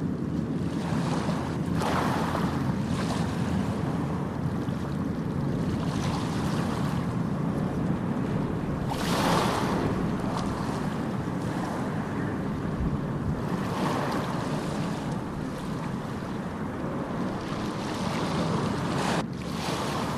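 Ocean surf: a steady low rumble with waves breaking and washing in every few seconds, the largest about nine seconds in. A brief drop-out comes near the end.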